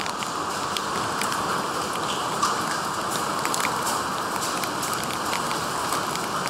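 Heavy thunderstorm rain pouring down in a steady hiss, with scattered sharp taps of individual drops.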